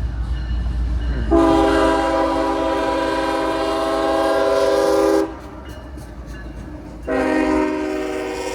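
Diesel freight locomotive's air horn sounding a chord of several tones: one long blast of about four seconds, then a second blast starting near the end, over the low rumble of the approaching train.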